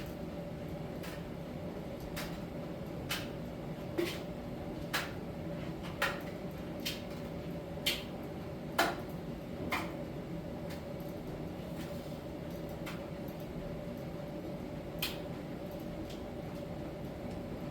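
Miele T1 heat-pump dryer running in the drying phase of a Soft Steam cycle: a steady hum with a faint tone, and light clicks about once a second as the drum tumbles the load. The clicks die away after about ten seconds, with one more a few seconds later.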